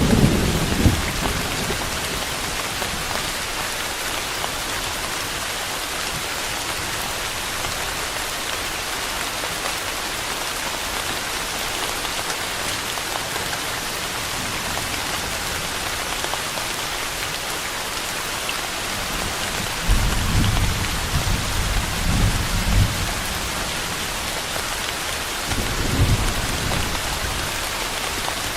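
Steady rain pattering on surfaces, with low rolls of distant thunder at the very start, for a few seconds about two-thirds of the way through, and briefly again near the end.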